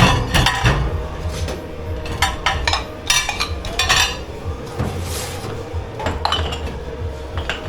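Dishes and cutlery clattering and clinking as they are handled in a dish pit, in a run of irregular knocks, over a steady hum.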